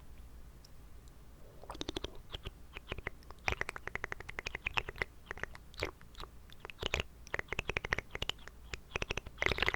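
Close-miked wet mouth sounds: quick clicks and smacks of water moving in the mouth, starting after about a second and a half and coming in bunches.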